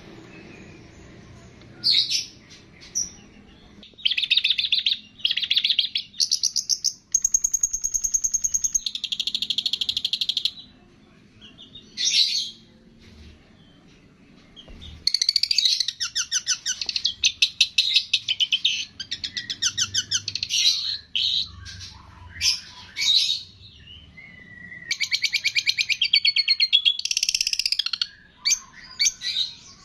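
Songbird song in repeated bursts of fast, chattering trills and high chirps, some bursts lasting several seconds, separated by short pauses.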